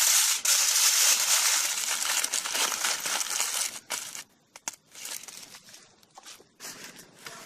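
Aluminium foil being crumpled and folded around a fish fillet. Loud continuous crinkling runs for the first four seconds or so, then eases to scattered, quieter crinkles.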